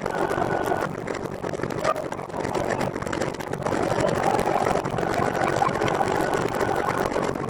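Steady running noise of a trike on the move, tyres and drivetrain, with a faint high whine that comes and goes.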